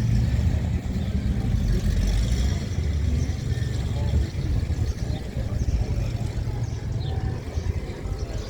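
A car engine running at idle, a low steady rumble that is strongest in the first half second and then settles lower, with indistinct voices of people in the background.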